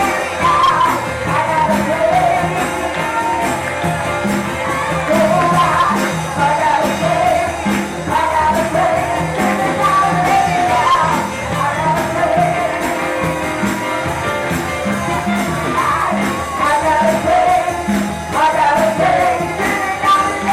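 Church worship music: voices singing over a band with a steady, even beat and jingling percussion.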